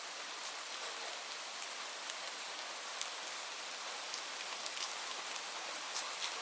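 Steady rain falling on leaves: an even hiss with many separate drops ticking sharply.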